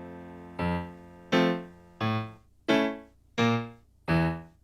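Instrumental interlude of a children's song on a keyboard. A held note dies away, then six single notes are struck, evenly spaced about 0.7 s apart, each fading before the next.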